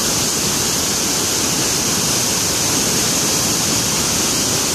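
Waterfall roaring: a loud, steady rush of falling water with no breaks or distinct events.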